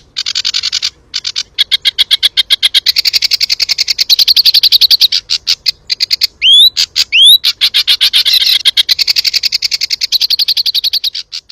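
Jongkangan bird singing its rapid-fire 'tembakan' song: long trills of fast, evenly repeated notes, broken by a short pause about a second in, with two sharp upward-sliding whistles a little past halfway.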